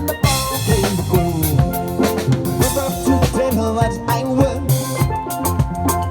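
Live party band playing an instrumental passage with no vocals: a drum kit keeps a steady beat under bass and a pitched melody line.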